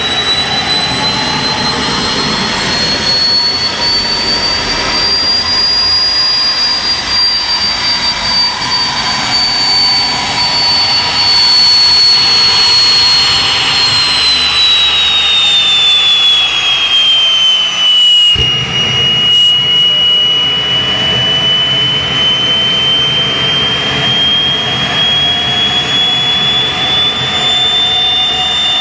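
Old gas turbine engine running with a loud high whine over a steady rush. The whine climbs slightly, sinks in pitch over several seconds as the engine slows, then slowly rises again as it picks up speed. About two-thirds of the way through, the deep rumble underneath changes suddenly.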